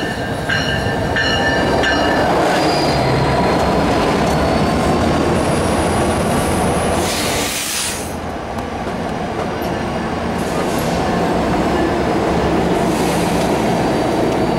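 NJ Transit diesel-hauled passenger train pulling in alongside the platform, its coaches rolling past close by. A bell rings about twice a second for the first two seconds, and a high wheel squeal comes about halfway through.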